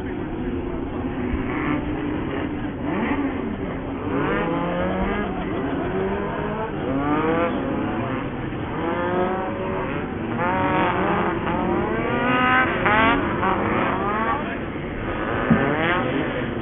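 Several off-road racing buggies' engines revving hard, their pitch rising and falling over and over as they accelerate, shift and pass one another.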